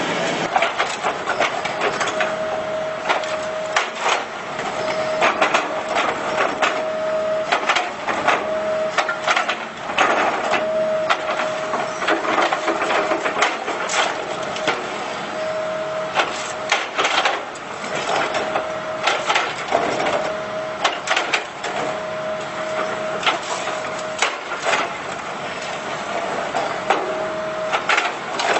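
Excavator pulverizer crushing reinforced concrete: irregular sharp cracks and snaps of breaking concrete throughout. A steady mid-pitched tone comes and goes every second or two.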